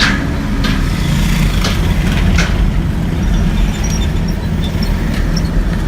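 A train passing over a level crossing: a loud, steady low rumble broken by a few sharp clacks in the first half.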